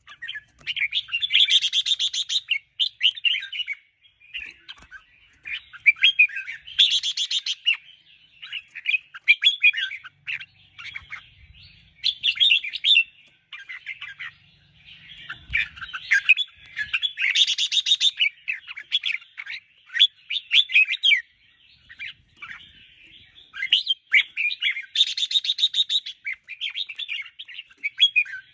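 Red-whiskered bulbul singing, phrase after phrase of quick, warbling chirps with short pauses, broken four times by a louder, harsher buzzing note.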